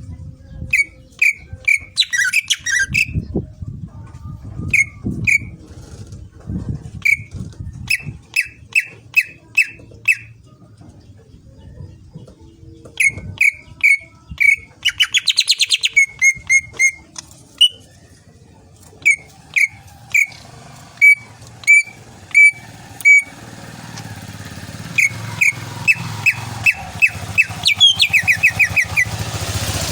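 Green leafbird (cucak ijo) singing: runs of short, loud whistled notes, repeated several in a row, broken by quick trills. A low engine rumble builds toward the end.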